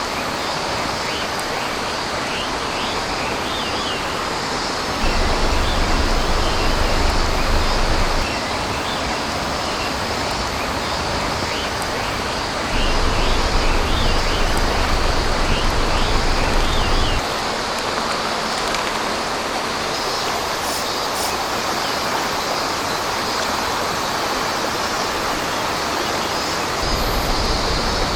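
Steady rush of flowing stream water, with a low rumble that comes and goes in stretches.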